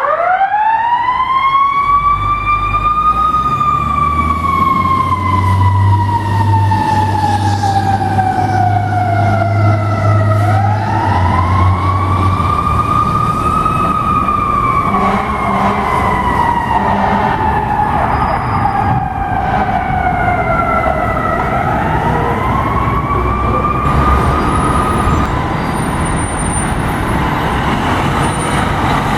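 Fire truck siren wailing in long, slow cycles: it starts suddenly and climbs fast, then falls slowly over several seconds and climbs again, three times in all, before dying away a few seconds before the end. A low steady rumble runs under the first half.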